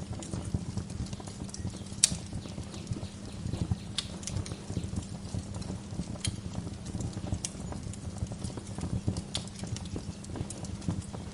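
Wood fire crackling in a fireplace: a steady low rumble of flames with constant small crackles and a sharp pop every second or two.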